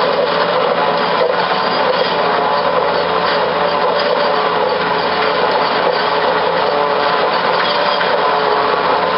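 SRM1000 combined corn-stalk cutter running steadily: engine and cutting mechanism making a loud, continuous mechanical noise.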